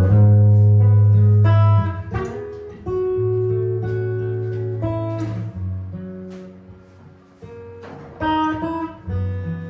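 Solo jazz guitar improvising slowly: plucked chords over low notes that ring on and fade, thinning out around seven seconds in before fresh chords come in near the end.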